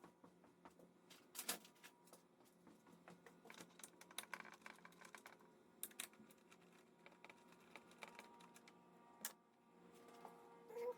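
Faint, irregular clicks and light knocks of hand work with small tools and plastic parts on a motorcycle, over a faint steady hum.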